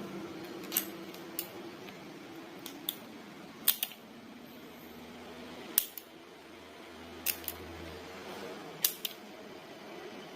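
A series of sharp clicks and snips, about ten in all and irregularly spaced, from small hand tools working on wires.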